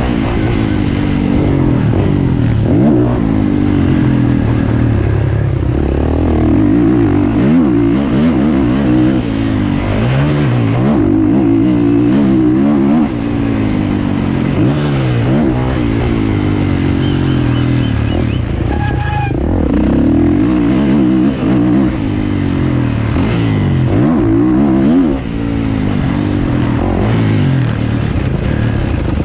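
450cc motocross bike engine revving hard, its pitch climbing and dropping over and over with throttle and gear changes, with several brief dips in loudness.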